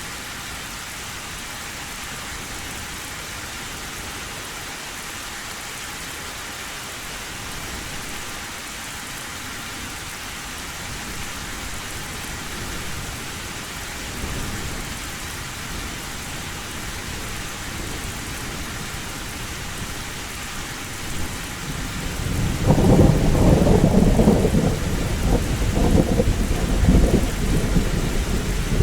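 Heavy rain falling steadily on a tin roof; about three-quarters of the way through, a loud low rumble of thunder sets in and carries on to the end.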